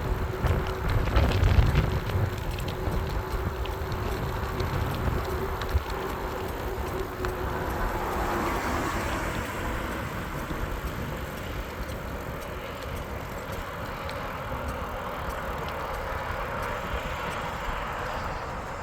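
Riding noise on an e-bike: wind buffeting the microphone, heaviest in the first couple of seconds, over steady rushing road noise. A steady hum runs underneath and fades out about halfway.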